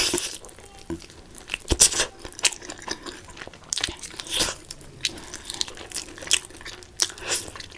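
Close-miked crunching and chewing of crispy Korean fried chicken, with irregular sharp crunches throughout.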